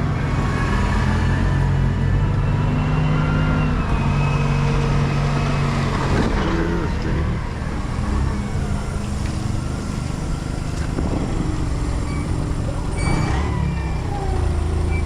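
Semi-truck diesel engine running steadily with a low hum, with a short sharp noise near the end.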